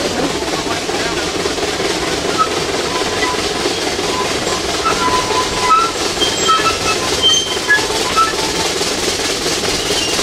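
Steady rumble and clatter of small railroad cars rolling over the track behind a replica Type A vertical-boiler Climax geared steam locomotive, with short high squeaks scattered through the middle.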